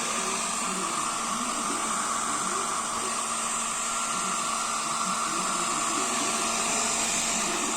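Electric heater with a blower fan running steadily: a constant whir of blown air over a low electrical hum.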